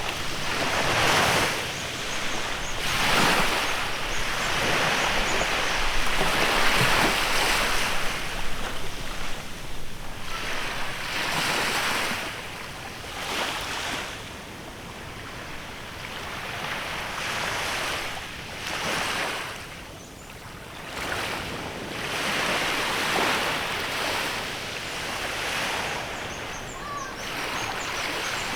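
Small waves washing onto a beach, each one breaking and washing in with a rush, several seconds apart. They are bigger in the first half and gentler later.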